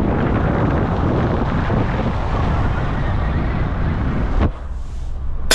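Wind buffeting the microphone: a heavy, steady rush with deep rumble that cuts off abruptly about four and a half seconds in, leaving a quieter hiss.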